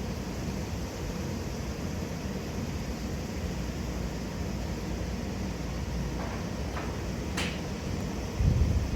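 Steady low rumble of wind on the microphone at a golf driving range, with one sharp click about seven seconds in from a club striking a golf ball. The wind rumble grows louder near the end.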